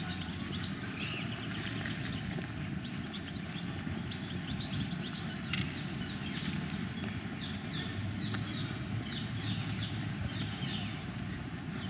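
Small birds chirping again and again in short, quick falling calls over a steady low outdoor background noise.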